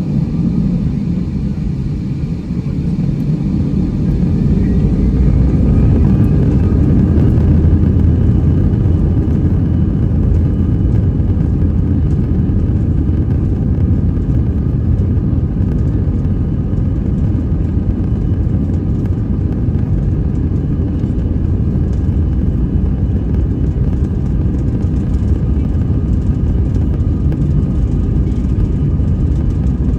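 Airbus A319-115's CFM56 jet engines spooling up for takeoff, heard inside the cabin: a whine rises in pitch and the low rumble grows louder over the first several seconds, then holds as a steady loud roar through the takeoff roll.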